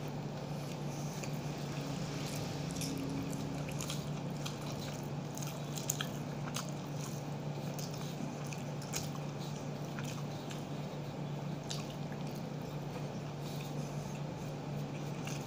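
A person eating by hand: chewing and wet mouth sounds, with fingers gathering food on a metal plate, as many short scattered clicks over a steady low hum.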